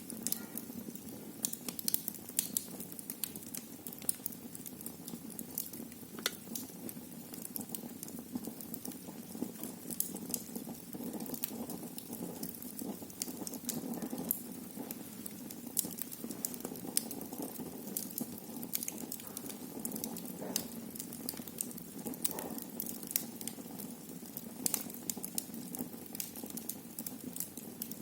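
Wood fire burning in a fireplace: irregular sharp crackles and pops, several a second, over a steady low rustle of the flames.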